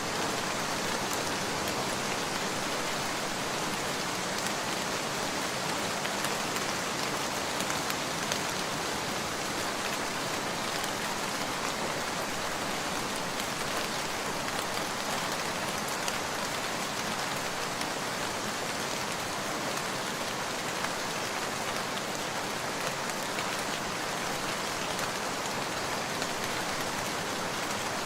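Steady heavy rain falling and pattering on surfaces, an even dense hiss with fine drop ticks throughout.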